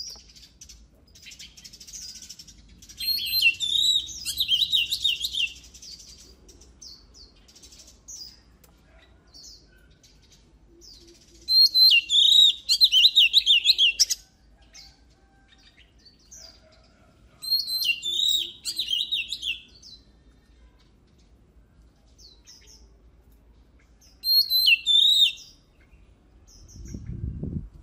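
Oriental magpie-robin singing: four loud bursts of rapid, varied whistled phrases a few seconds apart, with scattered short chirps in between. A low rumble comes near the end.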